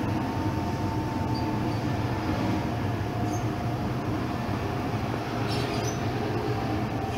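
Keisei 3500-series electric train heard from inside the car while running: a steady rumble of wheels on rail, with a faint whine held under it and a few light clicks.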